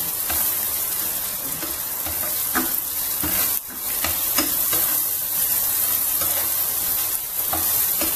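Julienned ginger and garlic sizzling in hot oil in a stainless steel frying pan, a spatula scraping and stirring them around the pan in irregular strokes.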